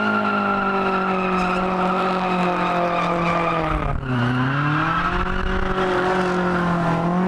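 Car engine held at high, steady revs during a drift, with the tyres spinning and squealing. About four seconds in the revs drop briefly and climb back up.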